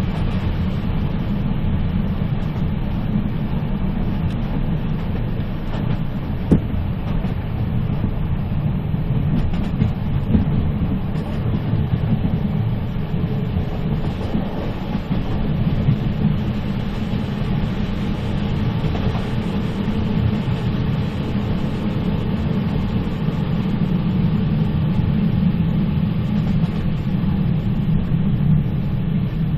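Moving train running with a steady low rumble, with a sharp click about six seconds in and a fainter one a few seconds later.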